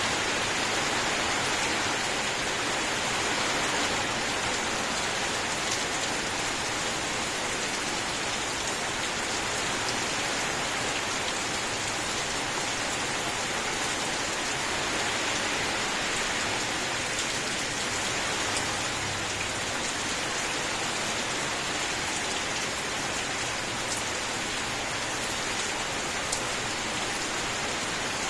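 Steady rain falling: an even, continuous hiss with a few faint single drop ticks.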